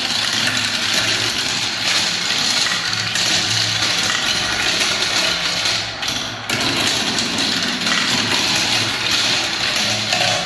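Many marbles rolling and clattering down plastic spiral marble-run tracks: a steady, loud rolling rumble that dips briefly about six seconds in.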